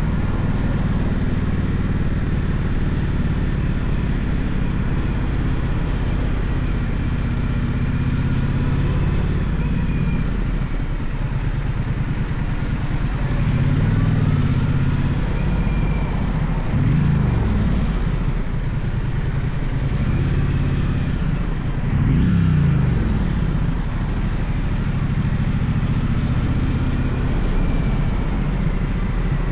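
Gaokin GK1200 motorcycle engine running on the road, its pitch rising and falling several times as the rider opens and closes the throttle.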